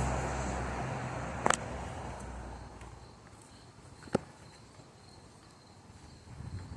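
A passing car's engine and tyre noise fading away over the first few seconds, with two sharp clicks about a second and a half in and again near four seconds. The quiet that follows holds faint crickets chirping.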